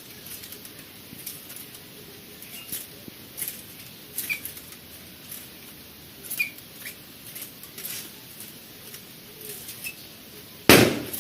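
Bird moving about with scattered light clicks and a few brief, faint high chirps, then one loud burst of about half a second near the end.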